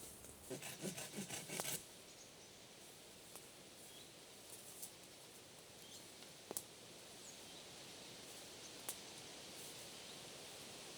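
Quiet forest ambience: a steady faint hiss with a few faint bird chirps. A brief bout of rustling and clicking handling sounds comes in the first two seconds, and single sharp clicks come twice later on.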